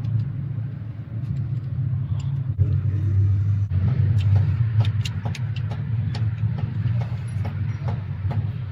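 A steady low machine hum, with irregular sharp clicks and taps that start about halfway through.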